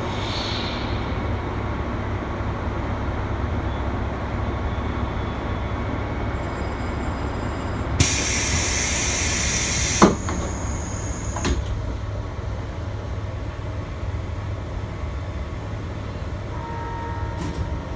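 JR Hokkaido 721 series electric train running with a steady low rumble. About eight seconds in, a loud hiss starts abruptly, lasts about two seconds and cuts off with a sharp click.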